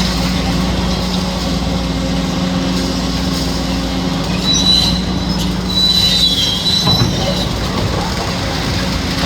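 Kobelco SK850 demolition excavator's diesel engine running steadily, with a high-pitched metallic squeal from about four to six and a half seconds in.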